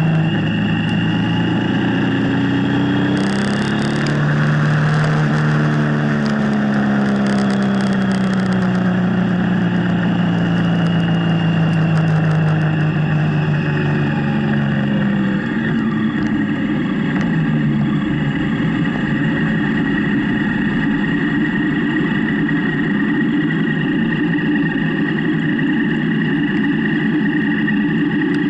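Motorcycle engine running under way, its pitch rising and falling several times in the first half, then holding fairly steady, over a constant rushing noise.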